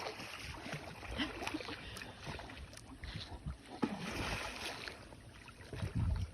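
Water splashing and sloshing irregularly in a pool as large cats play in it, with scattered sharper splashes and a low rumble near the end.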